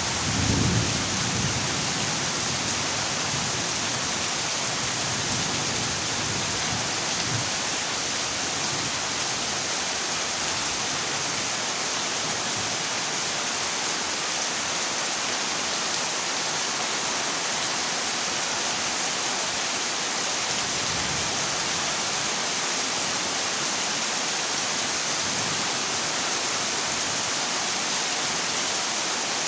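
Heavy rain drumming steadily on a corrugated zinc roof, an even hiss throughout. A brief low rumble of thunder sounds about a second in.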